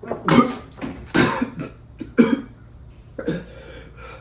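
A person coughing hard about four times, roughly once a second.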